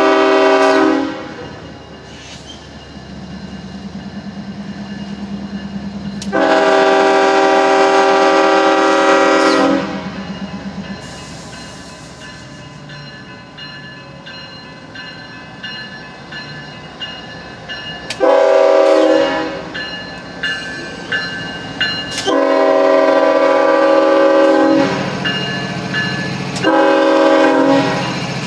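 Freight locomotive horn sounding a sequence of chord blasts (a blast ending about a second in, a long one, a short one, then longer blasts near the end), the usual grade-crossing pattern, with the diesel engine and rolling train running between blasts.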